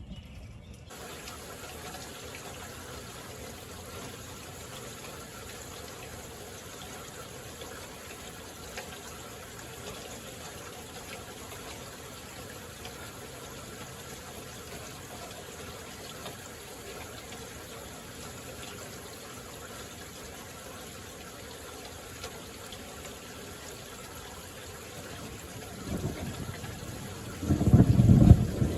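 Steady heavy rain falling. Near the end, a loud low rumble of thunder builds in two surges.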